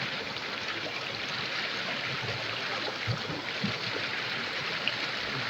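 Clear river water flowing steadily over stones, with a couple of faint ticks.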